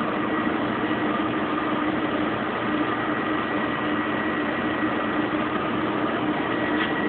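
Kenmore Oasis top-load washing machine spinning an empty drum at high speed in its final spin, a steady mechanical hum with a constant whine.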